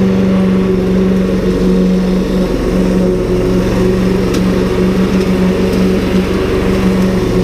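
Ryobi 190cc four-stroke petrol lawn mower with a Subaru engine, running steadily at mowing speed.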